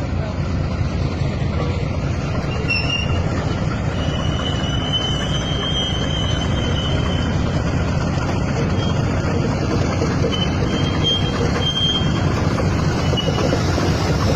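Freight train of fuel tank wagons rolling along the track with a steady rumble, and a thin, high wheel squeal coming and going through the middle of the run.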